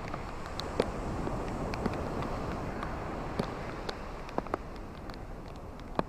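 Ocean surf: a steady hiss of waves on a shore, with scattered sharp little ticks and splashes from the water.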